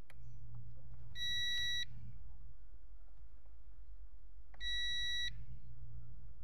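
Multimeter continuity beeper sounding twice, each a steady high beep lasting under a second: the probes are reading continuity across a car fuse, the sign that the fuse is intact.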